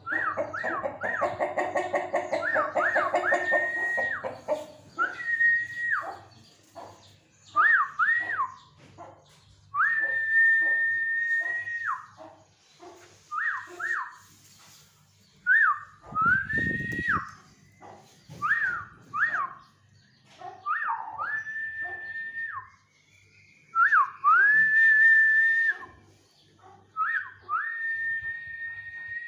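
Repeated high whistles every second or two, some short rising notes and some long held tones that drop off at the end. In the first few seconds they are mixed with chicken clucking.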